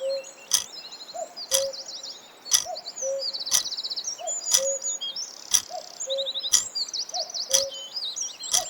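A countdown tick about once a second, each click followed by a short low tone, over a steady bed of many small birds chirping and trilling.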